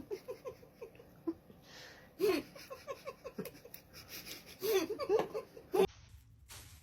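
A person laughing in three quick bouts of short, rapid 'ha' sounds, cutting off abruptly near the end.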